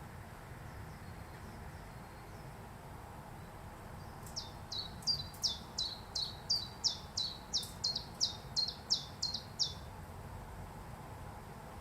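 A bird calling a series of about fifteen sharp, high, downward-slurred notes, roughly three a second, starting about four seconds in and stopping near ten seconds, over a steady low background hum.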